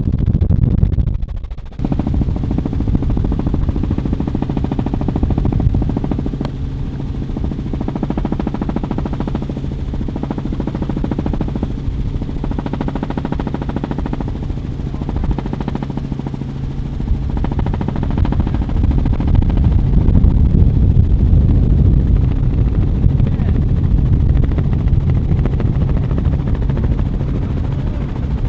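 Sustained rapid automatic airsoft gunfire, many guns firing at once, over the steady drone of a helicopter.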